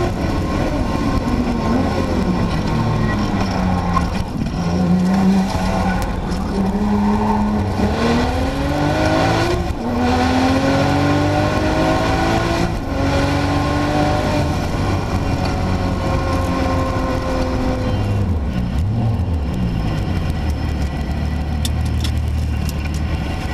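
Turbocharged flat-six of a Porsche 911 Turbo with GT2 RS kit and Supersprint exhaust, heard from inside the cockpit. The engine note drops in the first few seconds, then climbs through the gears with short breaks for shifts about ten and thirteen seconds in, eases off gradually, and runs low and steady at slow speed near the end.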